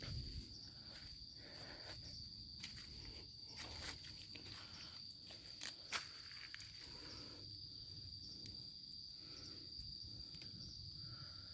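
Insects droning on one steady high note, with a few scattered light clicks and rustles, the sharpest about six seconds in.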